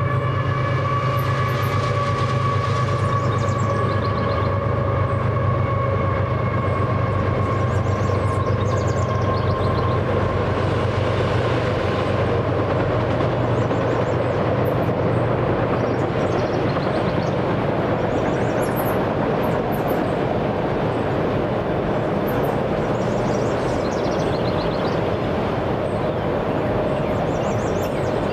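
Freight train of autorack cars rolling past with a steady rumble of wheels on rail. A steady, multi-toned ringing sits over the rumble at first and fades away over about the first ten seconds.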